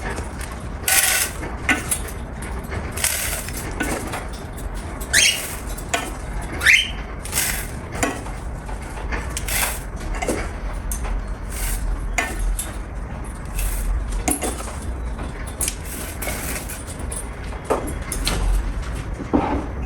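Irregular light clinks and taps, one every second or so, over a low steady hum, with a couple of short falling chirps about five and seven seconds in.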